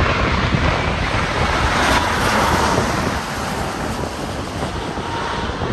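Steady rush of a Boeing 787-9 airliner's jet engines mixed with wind buffeting the microphone, a little louder in the first half.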